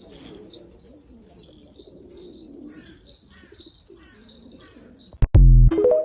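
Pigeons cooing in low, warbling calls, with thinner high chirps over them. Near the end a short, much louder low bump cuts across the calls.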